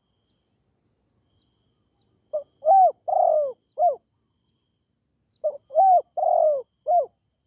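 Spotted dove cooing: two phrases of four short, arching coos each, about three seconds apart.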